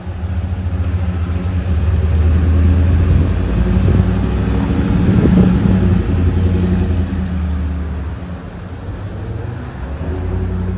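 Heavy emergency vehicle's engine running as the truck pulls out and drives past, growing louder to about halfway through and then easing off.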